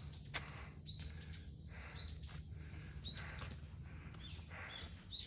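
A bird calling repeatedly: short high chirps that arch up and down, mostly in pairs about once a second, over faint outdoor background noise.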